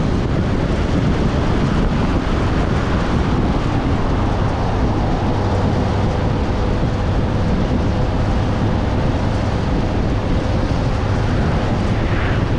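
Wind buffeting the camera microphone over a car's engine and road noise at 80–90 km/h, steady throughout, with a low hum underneath.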